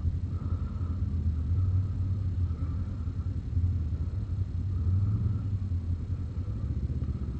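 ATV engine idling with a steady low rumble, with no revving.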